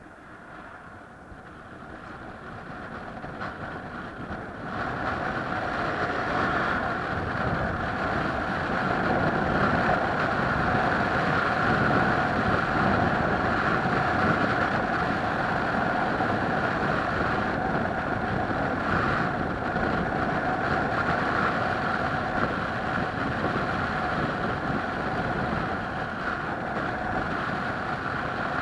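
A vehicle running steadily with a whine, growing louder over the first five seconds and then holding level.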